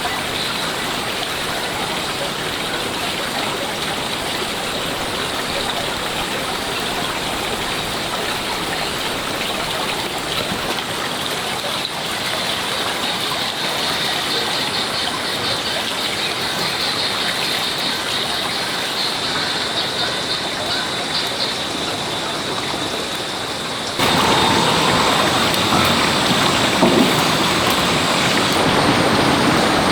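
Wood cooking fire smoking pork on a grill above it: a steady crackling hiss of burning wood and sizzling meat. About three-quarters of the way through it cuts to a louder stretch of the same kind of noise.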